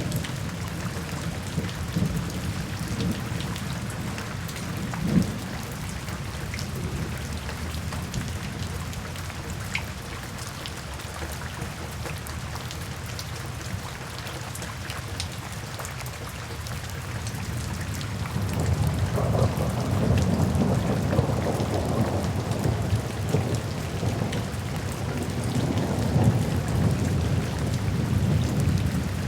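Steady rain falling, with a long low rumble of thunder rolling in about two-thirds of the way through and continuing to the end.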